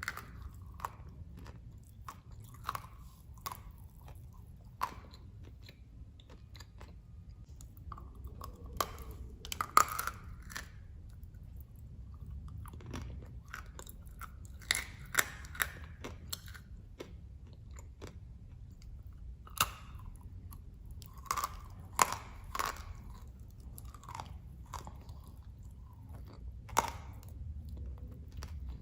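Dry, hard blocks of edible clay being bitten and chewed close to the mic, with crisp crunches at irregular intervals and quieter chewing between them.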